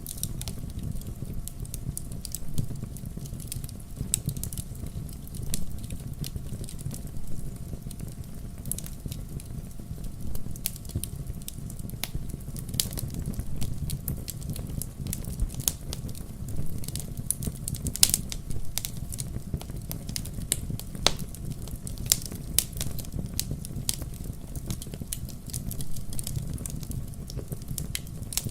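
Fireplace fire crackling: frequent, irregular sharp snaps and pops over a steady low rumble, with one louder pop about two thirds of the way through.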